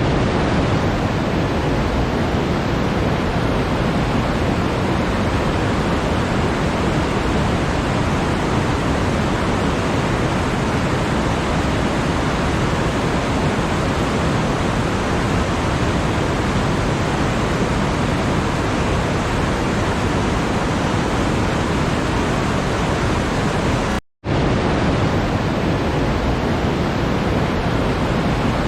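Steady, even rushing noise spread across low and high pitches, with no rhythm or tones. It cuts out to silence for a split second about 24 seconds in, then resumes unchanged.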